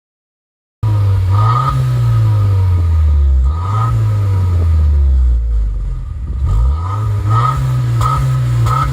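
Subaru WRX's turbocharged flat-four engine being free-revved in neutral through a Ganador aftermarket muffler, starting about a second in. The revs rise quickly and sink slowly back three times, the last time staying up.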